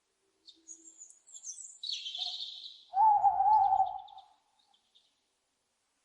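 Owl calls: a few short high chirps, then a hissing screech about two seconds in. A louder, lower wavering call about a second long follows, then faint quick ticking.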